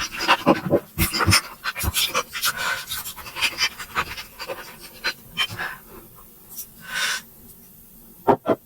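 Close-miked chewing and mouth smacking while eating momos: irregular wet clicks and smacks, several a second, with a brief breathy hiss about seven seconds in.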